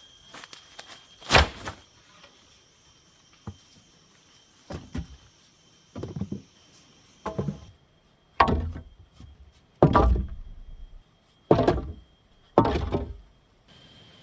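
A series of about nine heavy thuds on wood at irregular intervals, getting louder in the second half.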